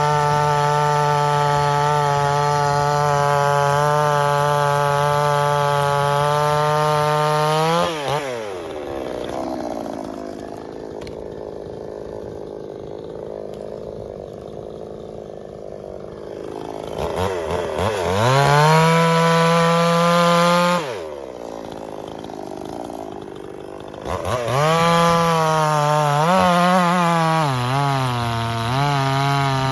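Two-stroke gas chainsaw held at full throttle, dropping to idle about eight seconds in, revved again, idling once more, then revved back up with its pitch wavering as the chain takes load in the wood.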